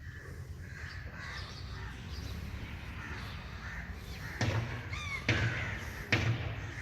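Birds calling in short harsh calls, with a low steady background rumble and several dull thumps in the second half.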